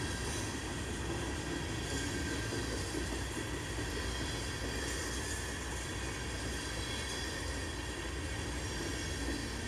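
Freight train's tank cars and covered hoppers rolling past, a steady rumble of wheels on rail.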